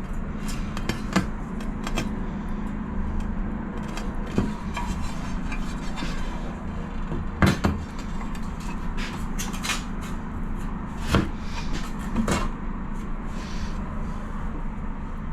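Irregular clinks and knocks of tiles and tiling tools being handled and set, over a steady low hum.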